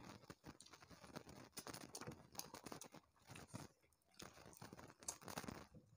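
Faint, irregular chewing and mouth clicks of people eating rice and fish curry by hand, with small crackles from fingers mixing rice on their plates.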